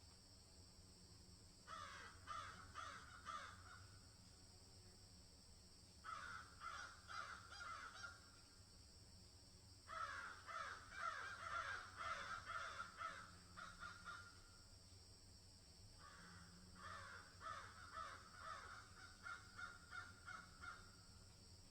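Birds calling in four bouts of quick, repeated harsh notes, with pauses of a couple of seconds between bouts, over a faint steady hiss.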